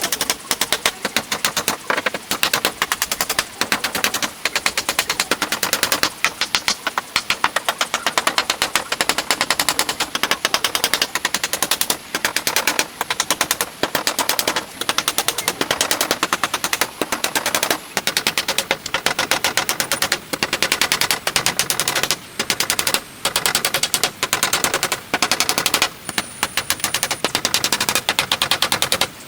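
Fast, even run of sharp knocks, many a second, broken by brief pauses every few seconds.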